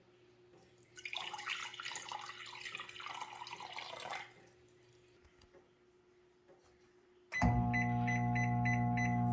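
Tap water running into a measuring cup for about three seconds. A few seconds later a microwave oven switches on with a loud, steady hum, and a quick run of five beeps sounds over it.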